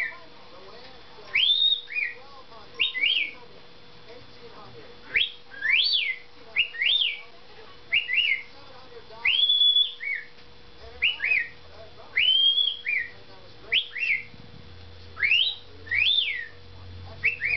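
A cockatiel whistling the wolf whistle again and again: a rising note and then a falling one, repeated about a dozen times in clear high whistles.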